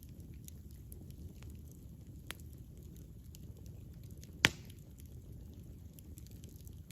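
Wood campfire burning: a steady low rumble of flames with scattered small crackles, a sharper snap about two seconds in and one loud pop about two thirds of the way through.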